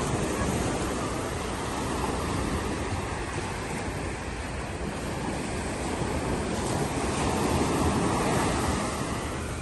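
Open sea waves washing, with wind buffeting the microphone; the wash swells louder about seven to eight seconds in, then eases.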